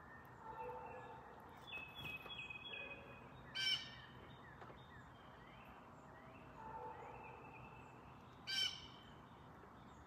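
Wild birds calling: a few clear whistled notes, and twice a short, loud, harsh call about five seconds apart.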